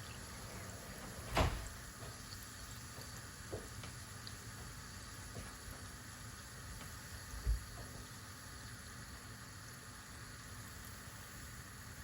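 Battered corn dog deep-frying in hot oil, a steady sizzle. A sharp knock comes about a second and a half in, and a softer low thump past seven seconds.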